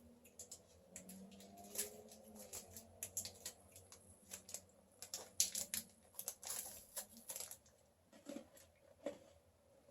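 Close-up chewing of a crunchy chocolate bar: irregular crunching and crackling, thickest in the first seven seconds or so, then a few scattered crunches.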